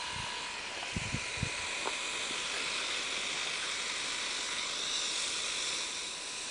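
Compressed air hissing steadily from a refrigerator-compressor pneumatic rig, swelling a little midway, with a couple of short knocks about a second in.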